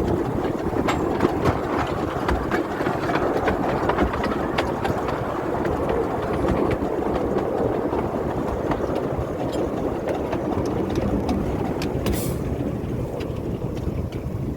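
Small light-railway locomotive running on the line, a steady mechanical running noise with frequent short clicks and knocks. A brief hiss comes about twelve seconds in, and the sound eases off near the end.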